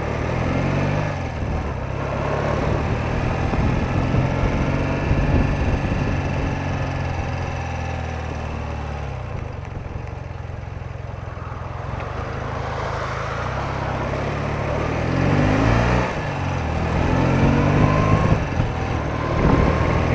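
BMW R80RT's air-cooled flat-twin engine running while the motorcycle is ridden, its pitch rising and falling several times as the revs change.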